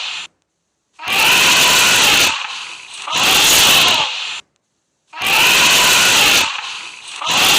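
Elephant trumpeting: loud, harsh calls of about a second and a half each, coming in close pairs, with abrupt silences between them.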